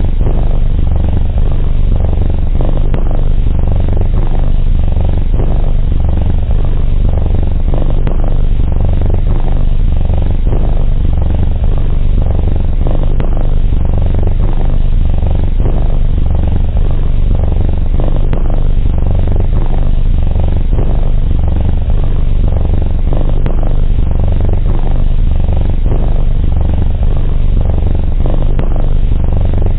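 Domestic cat purring steadily and continuously, a low even purr.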